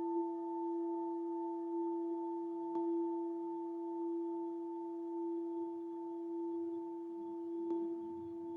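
Hand-held crystal singing bowl played by circling its rim, giving one sustained, steady ringing tone with fainter higher overtones above it. Two faint clicks are heard, about three seconds in and near the end.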